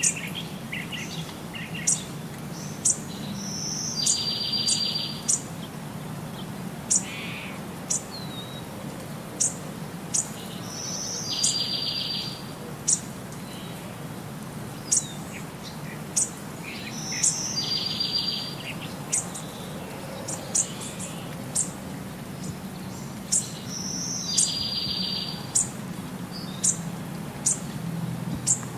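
Songbirds chirping: many short, sharp high chirps and a buzzy trill that comes back in the same pattern about every seven seconds, over a low steady hum.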